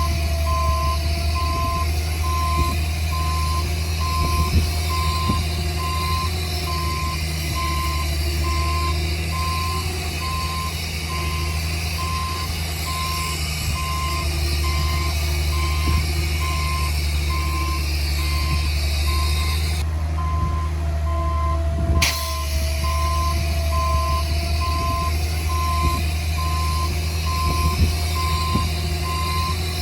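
Back-up alarm of a reversing heavy construction machine beeping steadily at an even pace, over the continuous low rumble of its diesel engine.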